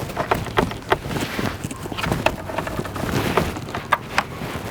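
Irregular knocks and clicks, several a second, over a rough scraping noise.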